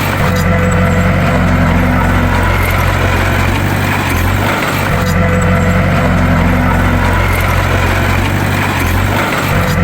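Heavy diesel engine of a bulldozer running steadily with a deep drone, its sound rising and easing in a cycle that repeats about every four and a half seconds.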